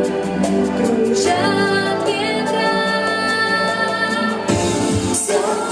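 A woman's voice singing a slow song to instrumental accompaniment, with long held notes.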